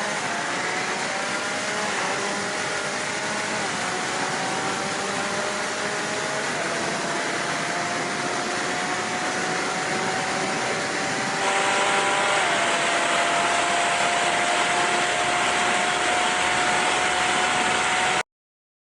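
A high-horsepower roll-racing car accelerating hard through the gears: the engine note climbs steadily and drops sharply at each of three upshifts, under a loud rush of wind noise. The sound cuts off abruptly near the end.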